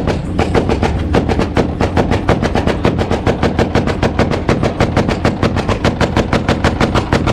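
A tuned car's exhaust popping and banging rapidly on a two-step launch-control rev limiter, a steady loud stream of about eight bangs a second.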